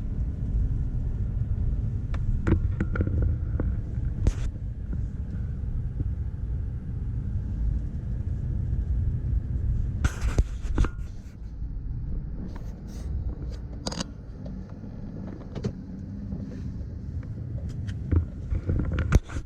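Car running, heard from inside the cabin as a steady low rumble. It eases and grows quieter about twelve seconds in, as the car slows into the parking area. Scattered light clicks and knocks come through, with a brief louder noise about ten seconds in.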